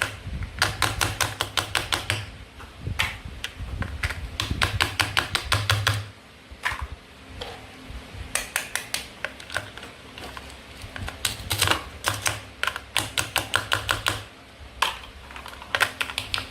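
Rapid runs of small hard clicks and taps from toy food pieces being handled and cut, about ten clicks a second in bursts of one to three seconds with short pauses between.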